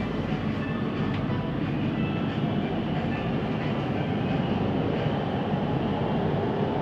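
Siemens Inspiro metro train heard from inside the carriage while running between stations: a steady rolling noise of wheels on rail, the unusual rolling noise this ride is recorded for.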